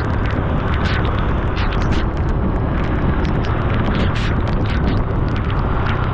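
Honda Super Cub C125's single-cylinder engine running under way, under a loud, steady rush of wind on the microphone, with frequent short ticks.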